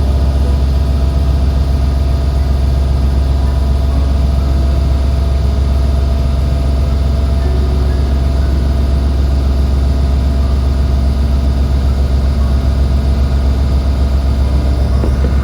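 A Mouette lake shuttle boat's engine running steadily, heard aboard as a loud, even low hum.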